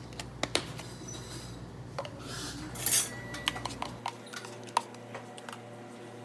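Cafe cups, dishes and utensils clinking and knocking as drinks are made at the counter, a string of sharp clinks with a short, louder rush of noise about three seconds in.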